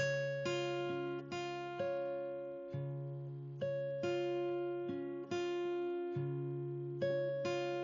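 Background music: slow acoustic guitar, plucked notes and chords struck about once a second, each ringing out and fading before the next.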